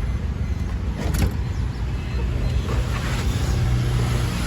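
Steady low rumble of a motor vehicle engine or traffic, with a brief louder sound about a second in and a low steady hum in the second half.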